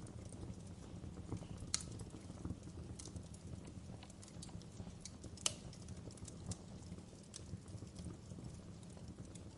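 Wood fire burning in a fireplace: irregular sharp crackles and pops over a low, steady rumble of the flames, with two louder pops about two seconds in and about five and a half seconds in.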